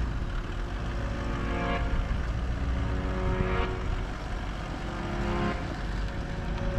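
Steady low rumble of a vehicle on the move, with faint held tones above it.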